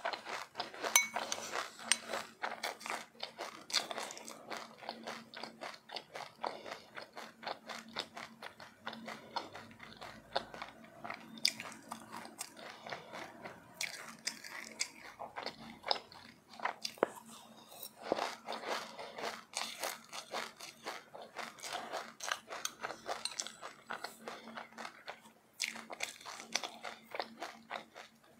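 Close-miked chewing and crunching of sesame seeds with passionfruit: a dense, rapid run of small crackles and crunches that keeps going with short pauses.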